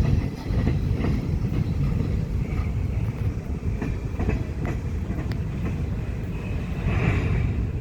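Ferromex freight train moving on the track: a steady low rumble with occasional faint clicks from the wheels.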